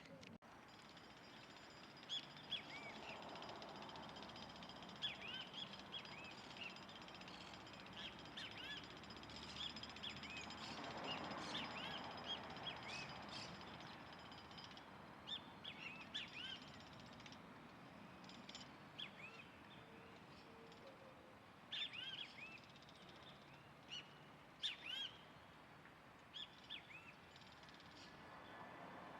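Small birds chirping in short, scattered calls over a faint background hiss that swells about halfway through.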